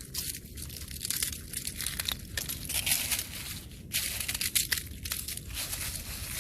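Thin, freshly formed ice crunching and crackling as it is broken, in repeated crisp bursts with short gaps between them.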